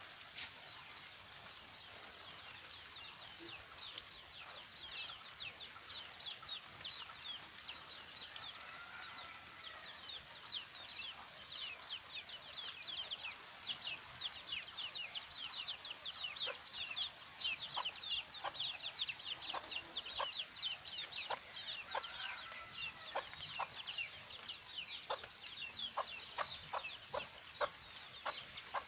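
Steady rain with chickens calling. A dense run of short high chirps goes through most of it, and from about halfway there are repeated short clucks.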